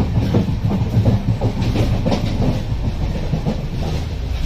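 Moving passenger train running, a steady rumble with the clickety-clack of wheels over the rails, heard from inside a coach.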